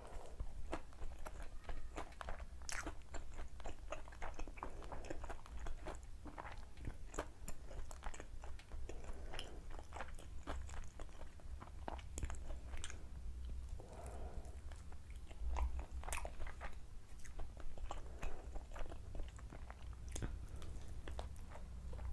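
A person biting and chewing a chicken lollipop: wet chewing broken by many sharp, irregular crunches and mouth clicks.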